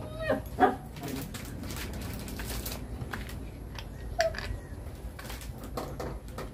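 Short bird calls, the loudest just under a second in and another around four seconds in, over scattered light clicks and taps from a wall switch being screwed into a plastic box.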